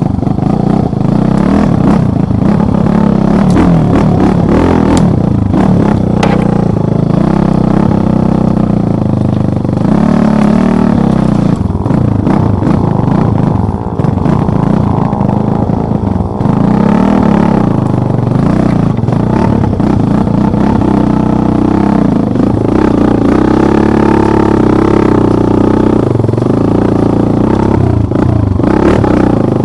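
Motorcycle engine running hard off-road, its pitch rising and falling over and over with the throttle. Scattered knocks and clatter from the bike over rough ground.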